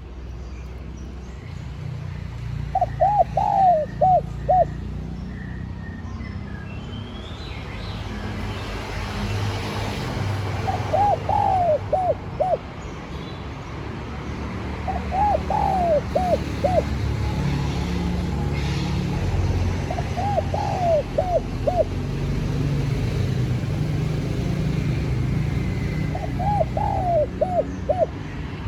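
Spotted dove cooing: five call phrases, each a quick run of four or five rising-and-falling coos, repeated every few seconds over a steady low rumble.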